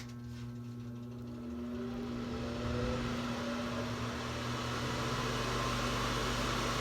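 A switch clicks and the heater section of an old Broan bathroom exhaust fan/heater unit starts up: its fan motor hums steadily while faint tones rise in pitch as the blower spins up over the first few seconds, and the rush of air grows louder. The running unit is pretty quiet.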